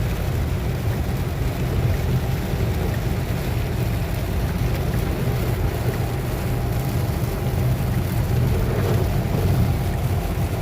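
Steady road noise inside a moving car on a rain-soaked, flooded highway: a constant low rumble with the hiss of tyres and rain on the wet road.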